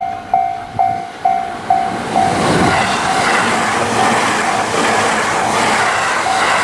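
A level-crossing alarm dinging about twice a second, then an electric multiple-unit express train passing close by at speed. Its loud rushing wheel and running noise builds from about two and a half seconds in and covers the bell.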